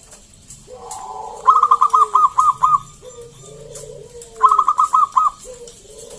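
Zebra dove (perkutut) cooing: two loud phrases of quick staccato coos, about five notes each, about three seconds apart, over a softer lower coo that falls in pitch and repeats about once a second.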